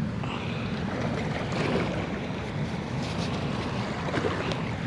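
Steady rushing noise of high water running through a flooded spillway, with a few faint short ticks.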